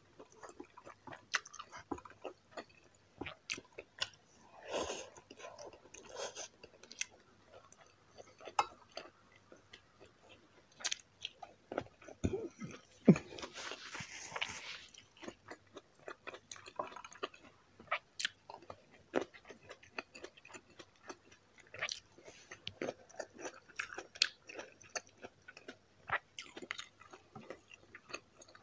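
Close-up mouth sounds of eating braised pork humba and rice by hand: chewing with many short, wet clicks and smacks. About halfway through, a brief rustle with a sharp click.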